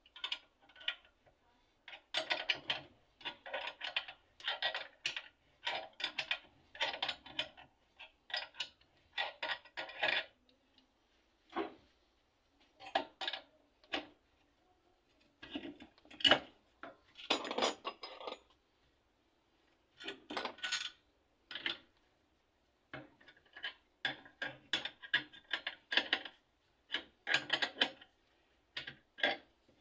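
Metal parts and hand tools clinking and rattling in irregular bursts of clicks, with short pauses between them.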